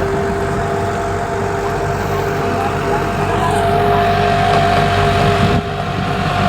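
A vehicle running at a steady speed: a continuous drone with two held tones over low rumble and hiss.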